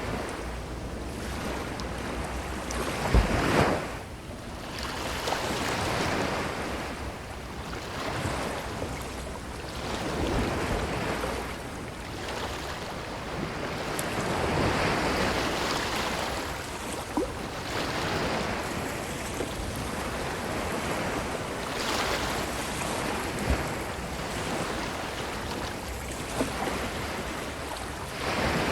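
Ocean waves breaking and washing up a beach, the surf swelling and ebbing every few seconds. About three seconds in comes a brief, loud low thump.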